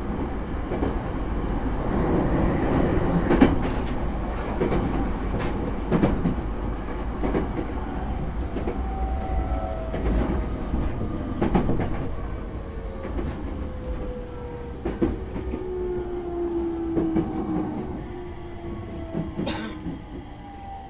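Running sound of a JR East E231-0 series electric train: a steady rumble with wheels clicking over rail joints. From about eight seconds in, the motor and inverter tones fall steadily in pitch as the train slows for its next stop.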